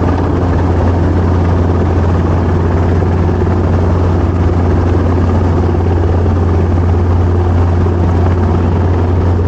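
Training helicopter running: a steady, loud drone of engine and rotors with a strong low hum, unchanging throughout.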